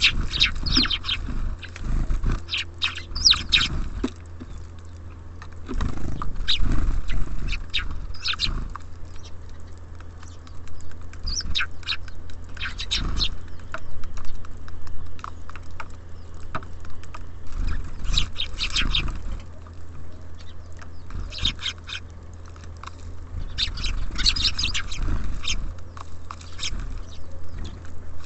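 Small songbirds at a bird feeder chirping in short bursts every few seconds, over a steady low hum.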